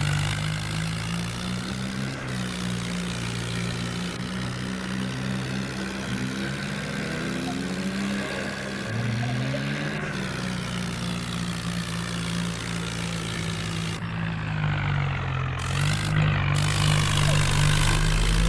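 Mahindra tractor's diesel engine running under throttle. Its pitch drops and climbs again about halfway through, and again near the end, as it is revved.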